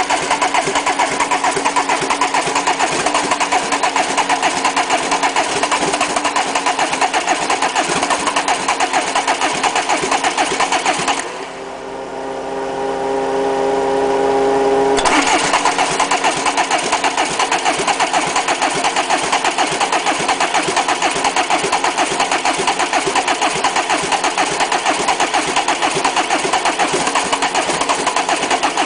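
Peugeot 306 1.9 turbo diesel being cranked on its starter motor in a hard cold start, turning over with a fast, even chugging without catching. About eleven seconds in the cranking stops for a few seconds and a steady hum rises in its place, then the cranking starts again.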